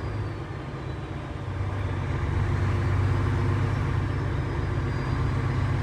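Steady low drone of a Renault T-range truck's diesel engine with road noise, heard inside the cab while driving; it grows louder about a second and a half in.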